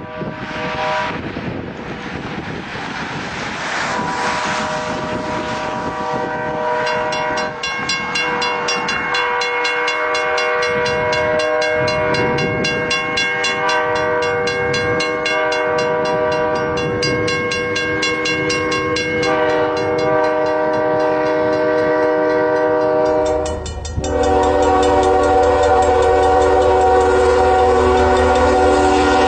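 A train's horn sounding a long, sustained blast over the running train's wheel noise. The horn shifts in pitch twice and grows louder in the last few seconds.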